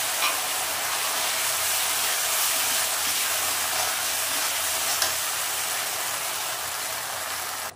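Onions and sauces sizzling hard in a hot kadhai as a poured arrowroot slurry is stirred in with a slotted metal spatula, with a few light scrapes of the spatula. The steady sizzle cuts off suddenly near the end.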